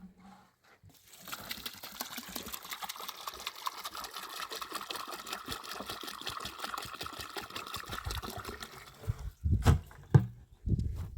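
Water pouring in a steady stream for about eight seconds, then stopping, followed by a few heavy low thumps.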